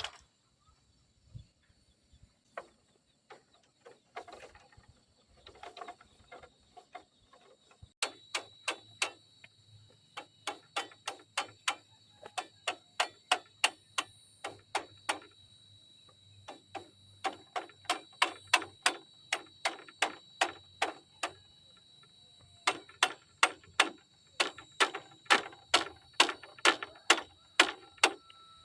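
Repeated blows of a tool on wood, about three a second in runs with short pauses between them, over a steady high whine.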